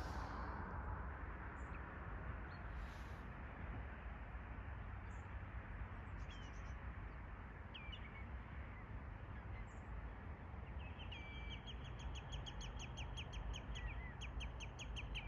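Steady distant traffic noise with scattered bird calls over it, among them the sliding calls of northern lapwings. From about two-thirds of the way in, a bird gives a rapid, even run of short calls at about five a second.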